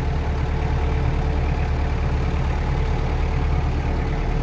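Farm tractor engine running steadily as the tractor drives along, a constant low drone with a faint steady whine above it.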